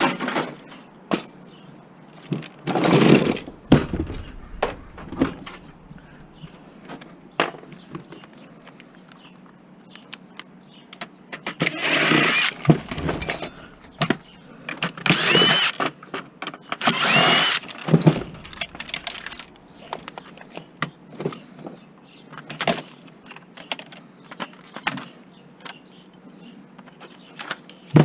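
Screws being backed out of a flat-screen TV with a power driver: four short whirring runs, two ending in a rising whine, between clicks and clatters of screws and parts being handled.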